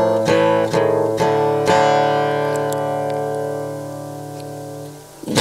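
Instrumental break in a song: a guitar strummed a few times, then a last chord left to ring and fade out over about three seconds.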